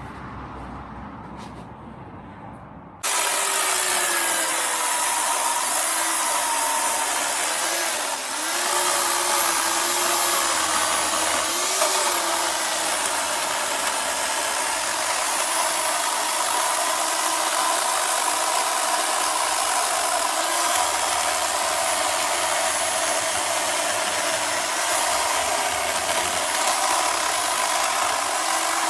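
WEN CP1014 corded electric chainsaw running steadily, starting abruptly about three seconds in, its motor and chain pitch dipping briefly now and then. Before that, a quieter low rumble.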